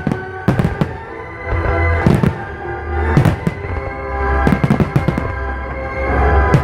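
Aerial fireworks shells bursting in a series of sharp bangs, some in quick pairs, about a second apart, over loud music played with the display.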